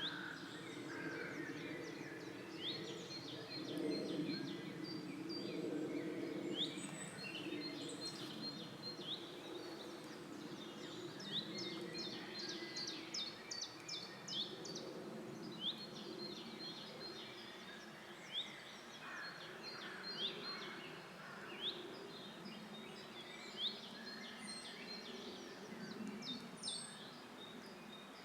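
Several songbirds singing and calling in a forest: quick chirps, whistled phrases and a repeated high note, over a steady low background hum.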